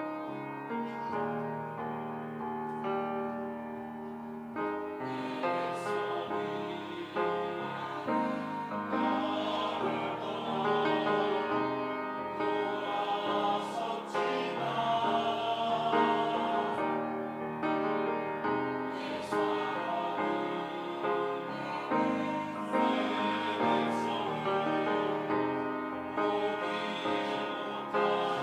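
Mixed church choir singing a sacred anthem in several parts, accompanied by piano.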